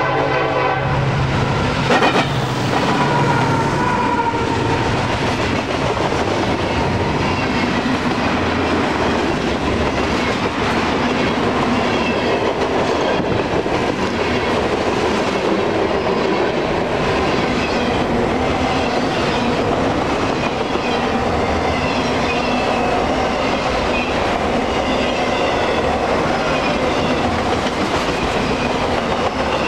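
Union Pacific SD70AH and AC4400CW diesel locomotives rumbling past close by at the start, then a long freight train's cars rolling by, a steady clickety-clack of wheels over the rail joints. There is a sharp knock about two seconds in.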